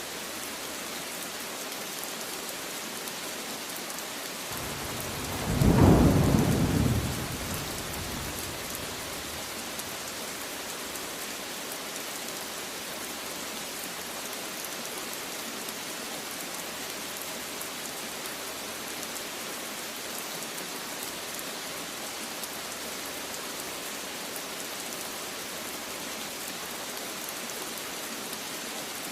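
Steady heavy rain falling. One low roll of thunder rises about five seconds in, peaks and fades within a few seconds, while the rain runs on.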